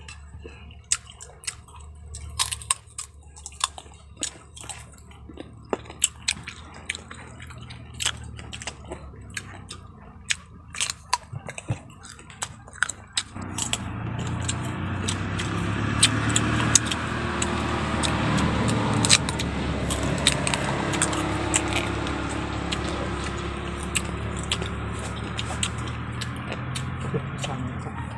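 Crunchy biting and chewing of raw green mango slices, with many sharp crisp clicks. About halfway in a louder steady noise with a low hum comes in and stays, over the chewing.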